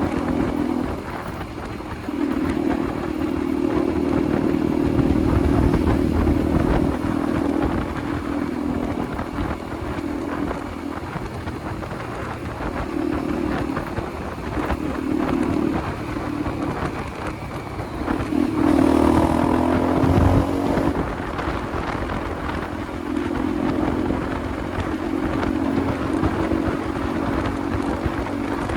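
Motorcycle engine running while riding, its note rising and falling with the throttle, with wind rumble on the microphone. About two-thirds in there is a brief louder rising engine note.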